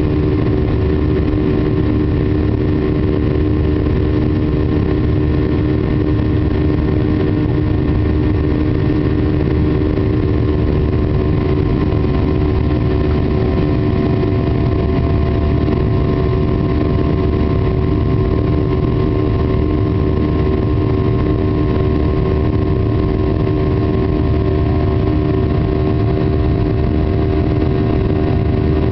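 Boeing 737-800's CFM56 jet engines running at a steady, unchanging thrust: a constant low rumble with a steady hum of several tones over it.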